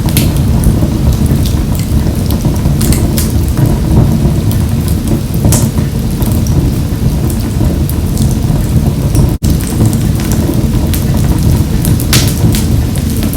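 Wood fire crackling in a wood-burning stove: irregular sharp pops and snaps over a steady low rumble of the flames. The sound cuts out for an instant about nine seconds in.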